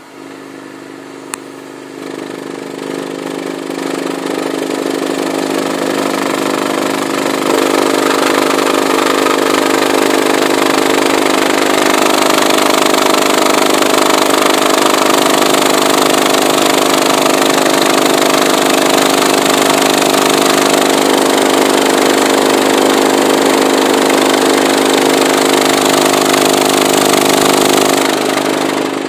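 SP4 subwoofer in free air, driven by a CT Sounds 7000.1 amplifier with a 25 Hz test tone, its cone moving hard and making a loud buzzing drone. The drone gets louder in steps as the bass knob is turned up, a few seconds in and again around a third of the way through, and drops off sharply near the end.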